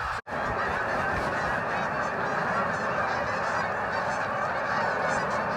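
A huge flock of geese honking as it flies overhead: a dense, unbroken chorus of many overlapping calls at a steady level, with a momentary dropout just after the start.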